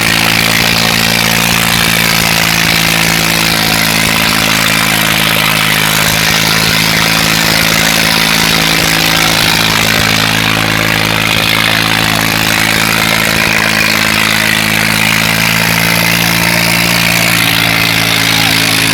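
Tractor engine running at a steady, unchanging speed: a loud, even drone.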